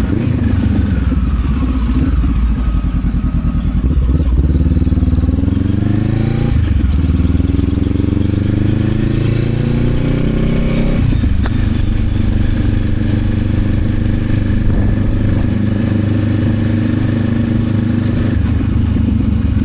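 Honda CB500X parallel-twin engine under way. Its pitch climbs for several seconds, with a brief dip about six and a half seconds in, then drops back about eleven seconds in and runs steadily.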